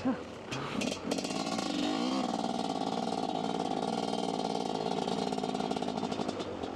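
Dirt bike engine running while riding, its pitch rising and falling briefly about two seconds in, on a bike the rider says stutters and runs badly, which he puts down to a worn piston or a dirty air filter.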